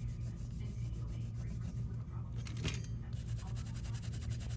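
Light rubbing and scraping of small hand tools against a phone being worked on, with a quick scrape about two and a half seconds in, over a steady low electrical hum.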